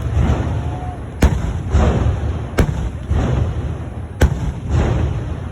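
Fireworks going off: three sharp bangs about a second and a half apart, each followed by a crackling tail over a low rumble.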